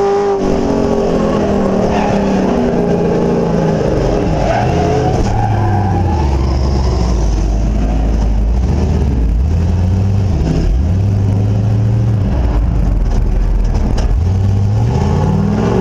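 NASCAR Truck Series race truck's V8 engine running loud: its pitch falls over the first five or six seconds as it comes off the throttle, holds low and even, then revs back up near the end.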